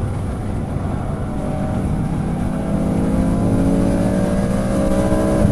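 Car engine heard from inside the car on a track lap. It drops off at the start, then pulls up through a gear with its pitch rising steadily.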